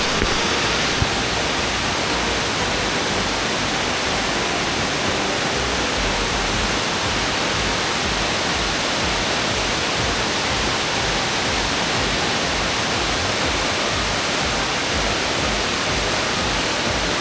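Triplet Falls waterfall: falling water rushing in a loud, steady, even wash of noise that does not change.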